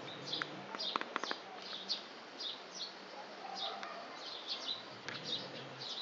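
Small birds twittering outside an open window: short high chirps, about three a second, with a few sharp clicks about a second in.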